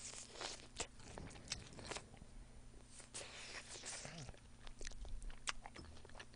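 Faint, close-miked chewing of fried chicken wings: small crunches and wet mouth clicks, scattered irregularly.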